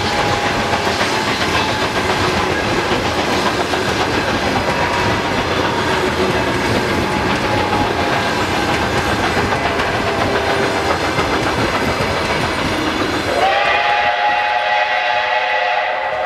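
Steam train running with a dense, steady rumble and rail clatter. About thirteen seconds in, the rumble drops away and a multi-tone train whistle sounds, held steadily to the end.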